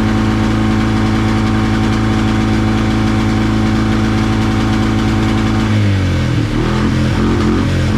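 Quad bike engine running at a steady idle while it warms up, its air filter soaked with too much oil. About six seconds in, the note turns uneven and wavering.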